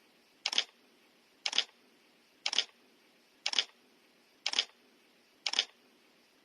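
Camera shutter clicking once a second, six times, each a quick double click.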